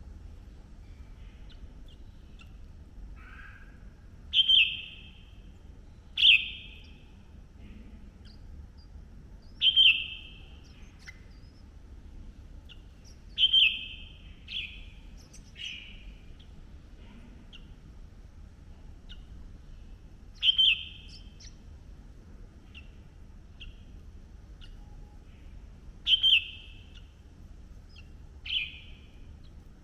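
Red-whiskered bulbul giving short, sharp chirps, about ten of them a few seconds apart, each dropping quickly in pitch.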